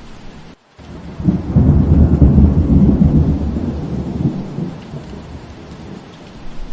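Steady rain with a deep rumble of thunder that swells about a second in and fades away over the next few seconds, just after a brief dropout in the sound.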